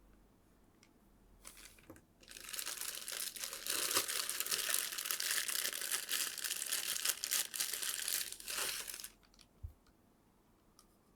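Packaging crinkling for about seven seconds as it is handled during the unboxing of a figure, with a short rustle just before it.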